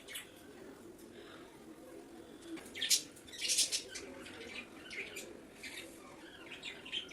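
Pet budgerigars chirping in short, high bursts that start about two and a half seconds in and come thick and fast around three seconds in, over a faint steady low hum.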